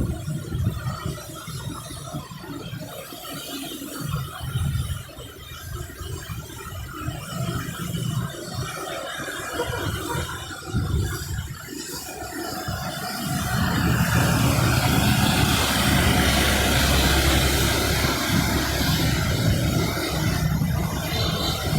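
Motor traffic in the rain: an uneven low engine rumble that grows louder and steadier about two-thirds of the way through, joined by a wide hiss.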